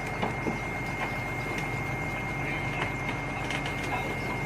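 Mini excavator's engine running steadily, with a thin high whine held throughout and a few light knocks scattered through.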